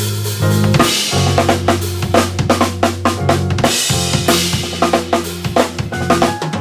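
Drum kit played in a dense, fast pattern of bass drum and snare strokes with cymbal hits, over backing music that holds sustained low bass notes. The bass notes change roughly every second and drop out briefly about four seconds in.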